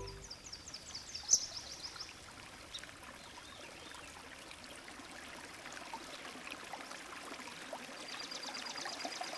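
Faint running water, with a high, rapid chirping trill near the start and again near the end.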